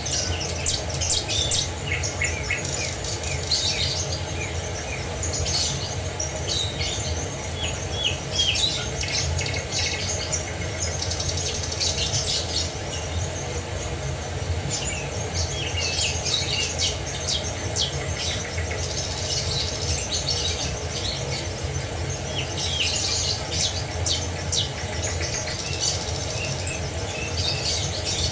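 Several songbirds chirping and trilling in short, quick bursts, coming in clusters every few seconds, over the steady low rush of a waterfall.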